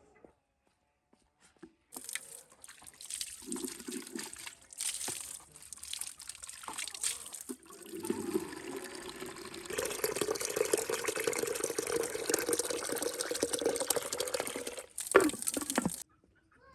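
Water pouring and splashing, uneven at first and then steadier, ending abruptly near the end.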